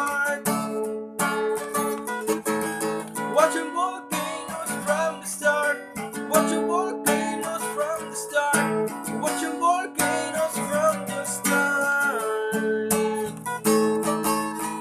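Music: acoustic guitar strumming chords in a steady rhythm, with a melody line over it and no sung words.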